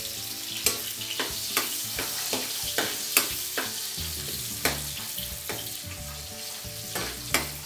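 Garlic and onion sautéing in hot oil in a wok, with a steady sizzle. A metal spoon stirs them, clinking and scraping against the pan about two or three times a second.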